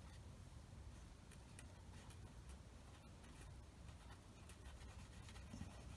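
Near silence: a low room hum with faint scratching strokes of green colour being worked onto the foam model plane.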